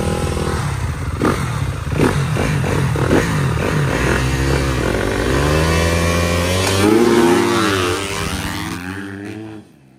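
Dirt bike engine running and revving, its pitch rising and falling, with a few sharp knocks in the first few seconds; the sound drops away suddenly near the end.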